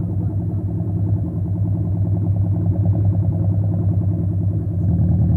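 Motor vehicle engine running steadily on the move, a low even drone that grows slightly louder near the end.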